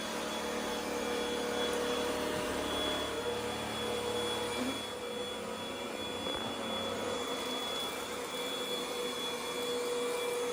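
Kanfuaq cordless vacuum cleaner running steadily: a motor whine with a hum over even airflow hiss. Its pitch shifts slightly about halfway through.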